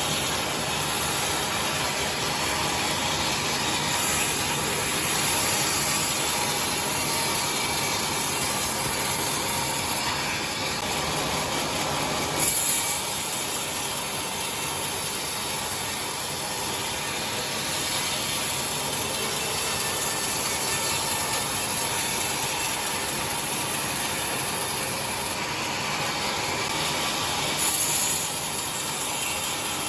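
Sawmill machinery running steadily while ripping timber into 2 cm boards, a continuous mechanical clatter. Two brief louder bursts come about twelve seconds in and near the end.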